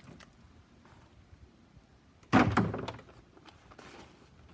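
A piece of magnet-fished scrap metal tossed onto a scrap pile, landing with one sharp, loud clank about two seconds in that rattles and dies away within about half a second.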